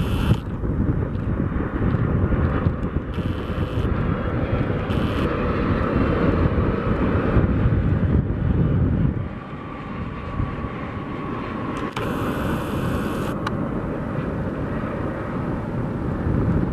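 Boeing 757-200 jet airliner landing, its engines making a loud low rumble that drops off sharply about nine seconds in and then carries on more quietly.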